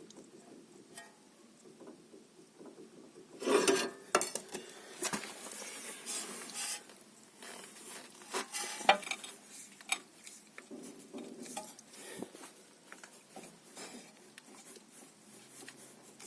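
Worn anti-roll bar (stabilizer) end link knocking: an irregular run of metallic clicks and clunks starting a few seconds in, the loudest knocks near that start and again about halfway through.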